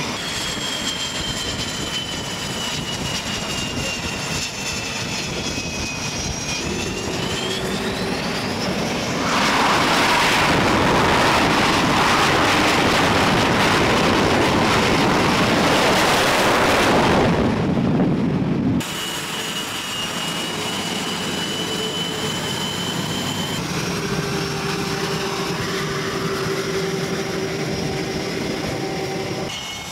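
Jet aircraft engines heard through several edited shots: a high whine that slowly falls and then rises in pitch, a loud roar lasting about ten seconds that cuts off suddenly, then a steady whine with a lower engine hum.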